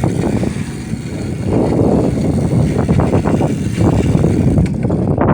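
Loud, gusty wind rumble on the microphone while riding a bicycle.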